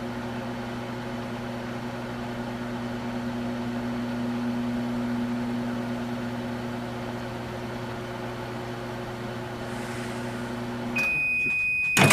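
Microwave oven running with a steady low hum. About eleven seconds in the hum stops and the oven gives one long high beep, lasting about two seconds, with a sharp knock partway through it.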